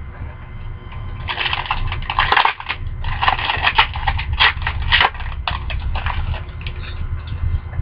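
Trading-card pack wrapper crinkling and rustling in the hands. The dense, irregular crackle starts about a second in and thins out near the end, over a steady low hum.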